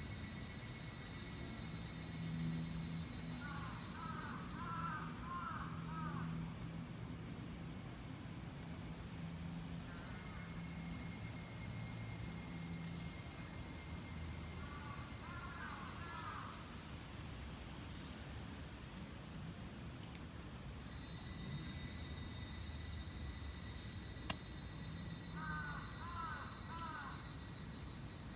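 Higurashi (evening cicadas, Tanna japonensis) singing in a steady high chorus, with three short bouts of repeated calls about ten seconds apart.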